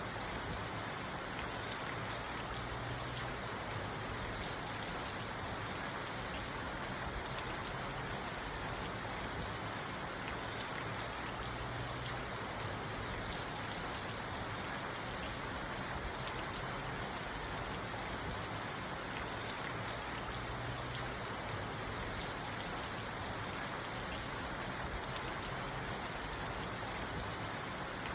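Steady rain falling on a parked car, heard from inside the cabin: an even hiss with a fine patter of drops.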